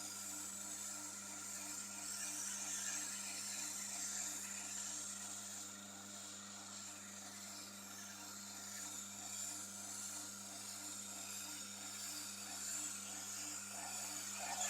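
Tormek sharpening machine running, its motor giving a steady hum that pulses about twice a second, while a knife blade is held against the turning wheel with a continuous grinding hiss.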